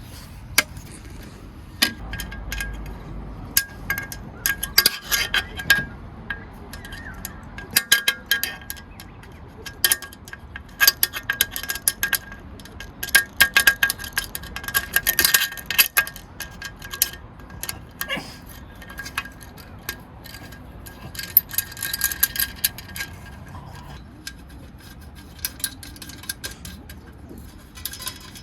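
Metal pieces clinking and jingling in irregular clusters, with a ringing metallic note, like metal camping gear being handled.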